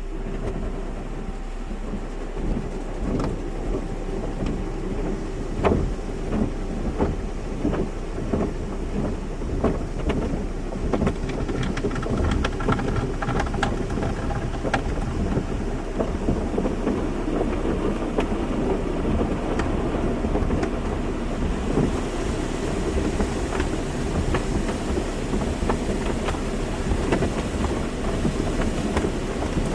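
Automatic car wash: water spraying and pattering on a car with a steady machine hum, and many irregular knocks. The spray's hiss grows stronger about two-thirds of the way through.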